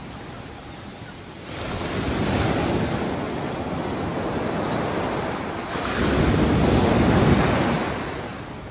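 Ocean waves washing onto shore. One wave swells in about a second and a half in, and a louder one comes about six seconds in, then dies away near the end.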